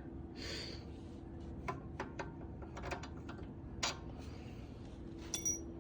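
Small metal engine parts from the removed go-kart carburetor being handled and set down: a string of light clicks and taps with a brief rustle near the start and a ringing metallic clink near the end, over a steady low hum.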